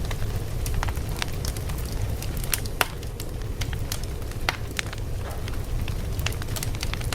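Fire crackling: a steady low rumble of burning with frequent irregular sharp pops and snaps, one louder pop a little before three seconds in.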